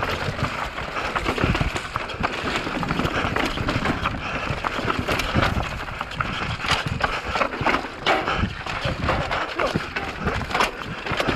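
Mountain bike descending a rocky trail at speed: dense, irregular knocks and clatter from tyres, chain and suspension hitting rocks, over a steady rush of wind noise.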